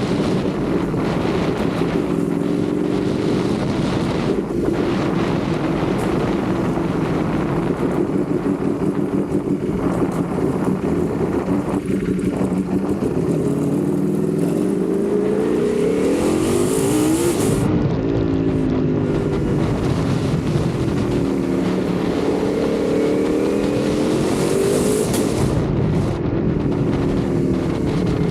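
Ducati Panigale V4 sportbike's V4 engine running under way. The engine note climbs twice, about halfway through and again near the end, dropping back after each climb.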